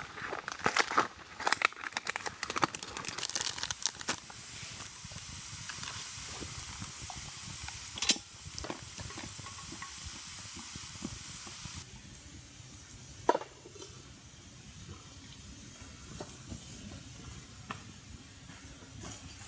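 Food frying in a pan: a burst of crackling and spitting, then a steady sizzling hiss that stops suddenly about halfway through, with a few sharp clicks afterwards.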